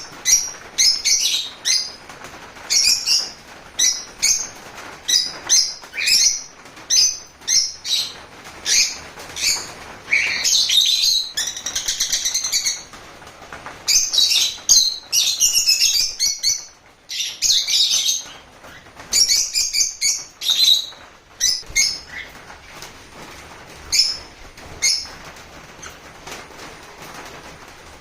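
Cockatiels and lovebirds chirping and calling, with many short shrill calls that come thick and overlapping, then grow sparse after about 22 seconds.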